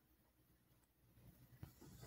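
Near silence: faint room tone with a low hum, and a single faint click near the end.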